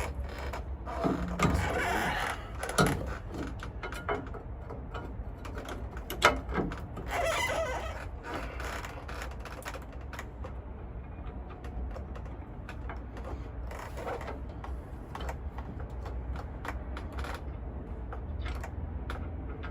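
Scattered metallic clicks and knocks of a driveshaft carrier bearing and its bolts being handled and fitted up by hand, busiest in the first several seconds, over a steady low hum.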